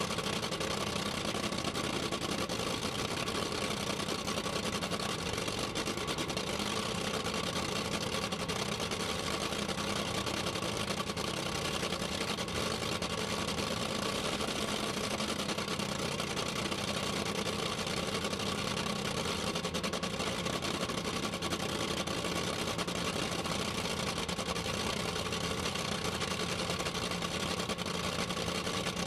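Drag racing car's engine idling steadily, picked up by an on-board camera.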